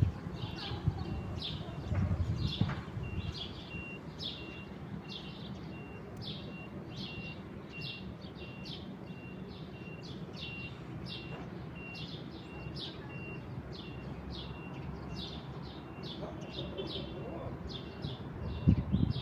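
Birds chirping: short high calls repeat about twice a second, over an evenly pulsing higher note. Low rumbles come briefly near the start and again near the end.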